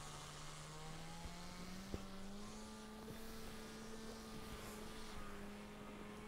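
Faint steady electrical or motor hum that rises a little in pitch over the first two seconds or so and then holds level, with a single click about two seconds in.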